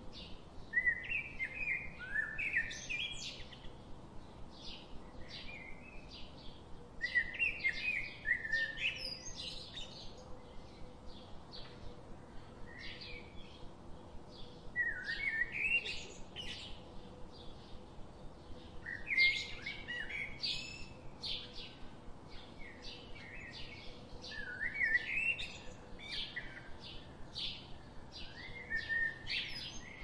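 Small birds chirping. A short, high chirp repeats about twice a second, and every four to six seconds there is a louder burst of jumbled, falling chirps.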